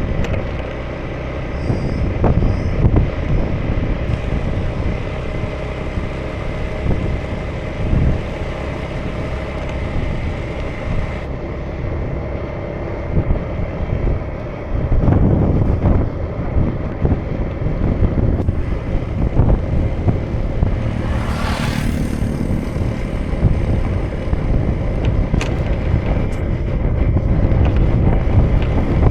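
A 2018 Honda Vision scooter's single-cylinder engine runs at riding speed, with wind buffeting the microphone. A brief rushing hiss comes about three-quarters of the way through.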